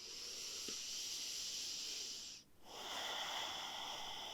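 Two slow, deep breaths drawn close to the microphone, each a long even hiss of about two seconds, with a short pause between them.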